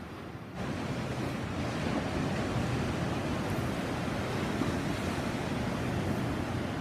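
Caribbean sea surf: a steady rush of waves washing on the shore, which turns abruptly louder about half a second in.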